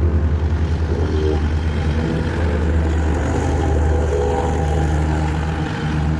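Engine of a small construction machine running steadily, with a low hum and shifting higher tones over it.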